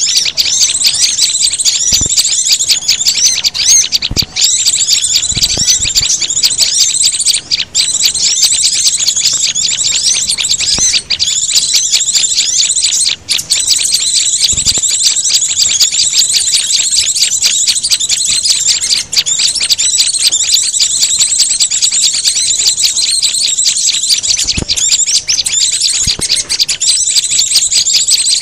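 A bird-lure track of small songbirds calling all at once, mixing the calls of white-eyes, prinias, sunbirds and flowerpeckers. It is a dense, continuous, high-pitched chirping and twittering of rapid repeated notes with no pauses.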